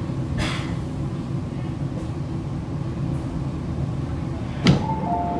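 MTR East Rail Line R-Train rumbling low as it creeps to a stop at the platform, with a short hiss about half a second in and a loud clunk near the end. Just before the end a two-note electronic chime begins, repeating.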